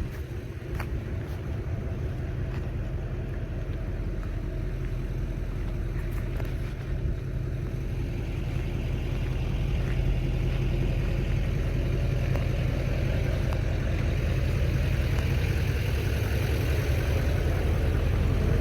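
Steady low mechanical hum of a running engine or machine, with a few faint clicks, growing louder over the second half.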